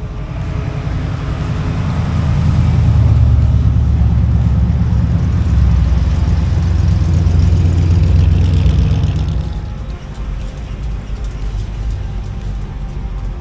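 Classic American car's engine rumbling deep and low as it cruises slowly past, loudest through the middle and dying away about three-quarters of the way through.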